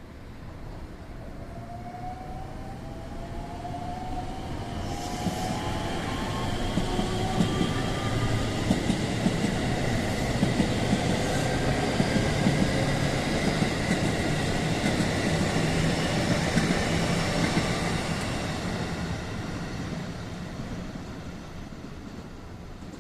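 Electric train passing on the line, its sound building up, peaking for about ten seconds with repeated wheel clacks over rail joints, then fading away. Faint rising tones are heard as it approaches.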